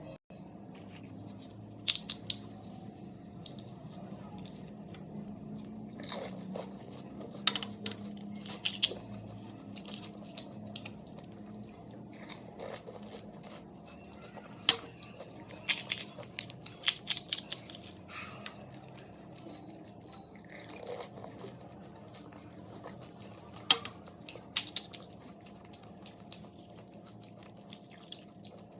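Close-up eating sounds of pani puri: crisp fried puri shells crunching between the teeth in irregular clusters of sharp cracks, with chewing in between.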